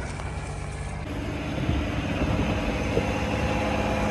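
Pinzgauer 6x6 with a swapped-in Toyota engine running, pulling harder about a second in as it takes on a small hill with its diff locks engaged.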